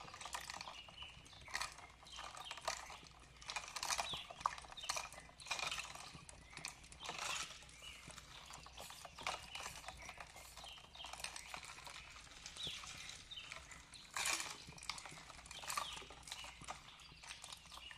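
Wood fire crackling, with irregular pops and snaps.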